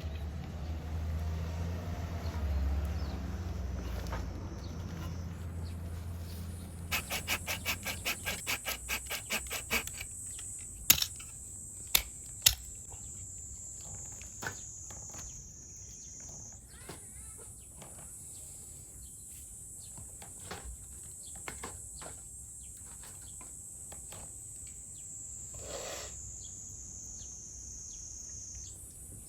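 Insects droning at a steady high pitch, joined about ten seconds in. Before it comes a rapid even run of about a dozen clicks, then three sharp cracks and scattered faint crackles and clicks.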